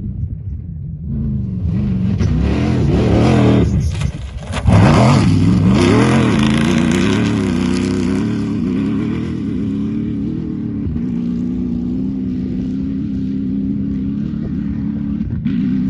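A vehicle engine fires up about a second in and is revved hard, dropping briefly near four seconds before being revved again, then settles to a steady idle.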